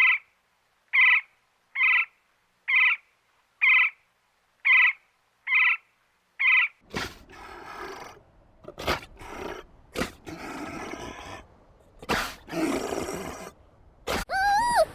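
About eight short honking calls, roughly one a second, from a goose-like bird. About seven seconds in they give way to rough, irregular roaring calls from a large animal, and a pitched call rises and falls near the end.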